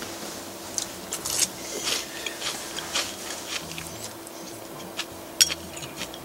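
Close-up eating sounds: chewing and mouth smacks with short irregular clicks as rice is taken from a bowl with chopsticks, over a faint steady hum.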